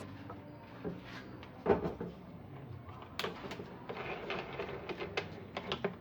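Scattered light knocks and clicks over a faint low steady hum.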